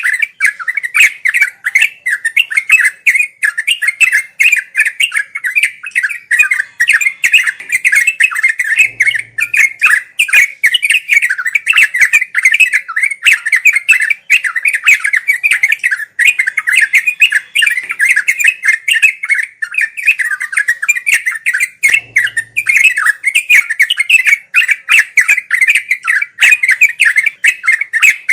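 Yellow-vented bulbul (trucuk) singing a fast, unbroken run of chattering notes without a pause: the rolling 'ngeropel' song used as a master recording for birds learning to sing.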